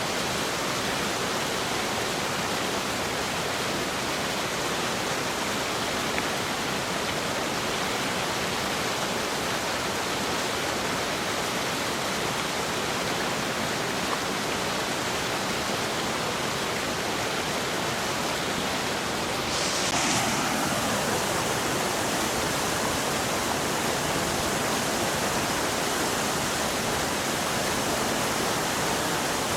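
Steady rushing of fast-flowing water. About two-thirds through, the sound shifts to a slightly louder, brighter rush.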